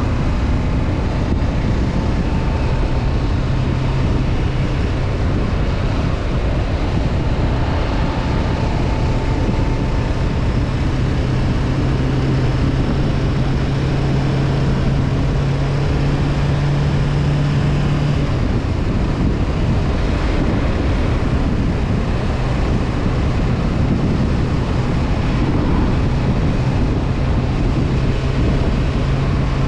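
Honda CB500F parallel-twin engine running at steady cruising revs, heard under wind and road noise from riding. The engine note climbs a little, fades about two-thirds of the way through, and comes back near the end.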